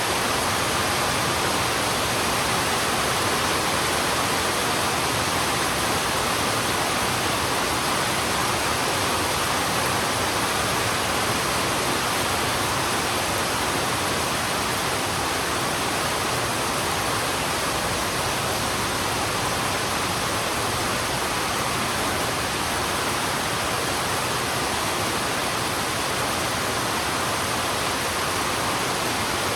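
Heavy rain falling steadily on a road, an even, unbroken hiss with no separate drops or thunder standing out.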